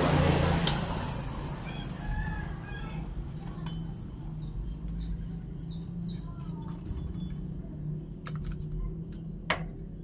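Small birds chirping, with a quick run of falling chirps in the middle, over a steady low hum. A few sharp clicks come near the end.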